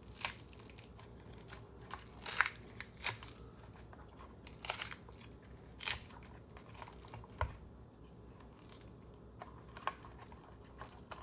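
Scattered small clicks, scrapes and light knocks of plastic RC car parts being handled and slid apart during disassembly, about seven over eleven seconds, one a duller knock around the middle.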